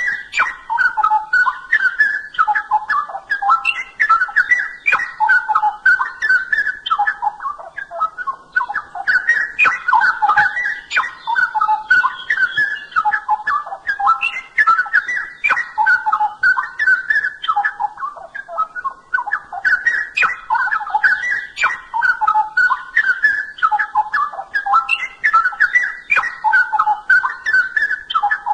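Straw-headed bulbul (cucak rowo) singing loudly in its full song, a run of rich, bubbling, warbled phrases repeated one after another with only brief pauses.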